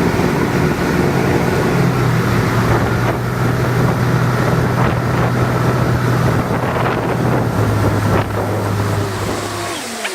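Motorboat engine running steadily while towing a wakeboarder, with wind buffeting the microphone. The engine's pitch dips slightly near the end.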